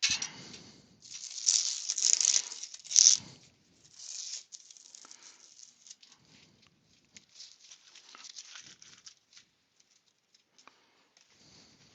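Irregular rustling and scraping of hands handling a wooden piece and workshop materials. It is loudest in the first four seconds, with a sharp scrape just after three seconds, then thins to scattered faint clicks and scuffs.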